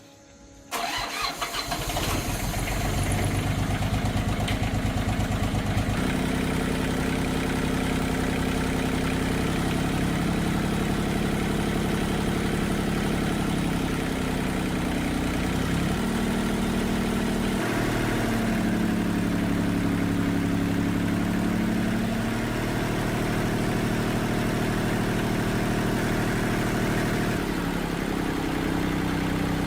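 Old tractor engine starting suddenly about a second in and then running steadily, its speed shifting up and down a few times.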